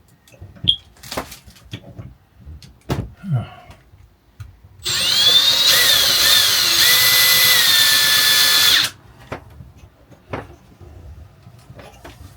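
Power drill running in one burst of about four seconds, drilling a pilot hole through the PVC shower wall panel; its whine rises as it spins up, then holds steady with small shifts in pitch. A few light knocks and handling clicks before and after.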